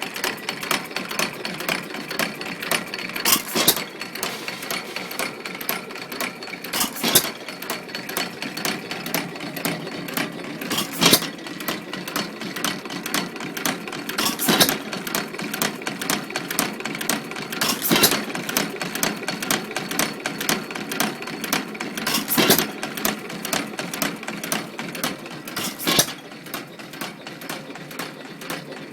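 1912 Stover Model YA vertical open-crank hit-and-miss engine, re-badged Moteur Pilter, running on its governor. It fires with a sharp bang about every three and a half to four seconds, and the crank and valve gear clatter rapidly as it coasts through the missed strokes in between.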